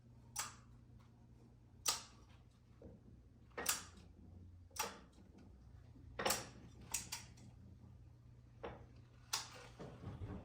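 Shoes knocking inside a turning washing machine drum: irregular sharp thuds, roughly one a second, over a steady low hum.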